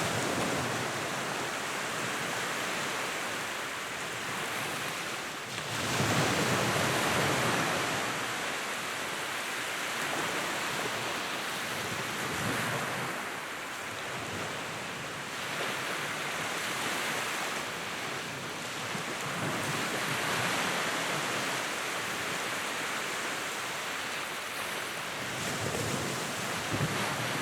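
Wood fire in a fireplace burning with a steady rushing hiss that swells and ebbs every few seconds.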